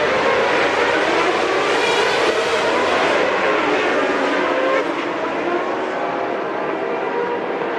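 Several Formula One car engines running at high revs together, with many overlapping engine notes shifting in pitch. The sound gets a little quieter about five seconds in.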